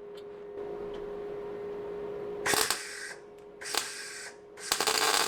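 MIG welder arcing in short bursts: two brief tacks of about half a second, then a longer crackling run of over a second and a half, over a steady hum. The welder is running without shielding gas.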